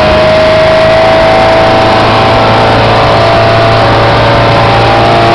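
Speedboat engine running steadily at speed, its pitch creeping up slightly, heard from aboard with a rushing noise of wind and water over it.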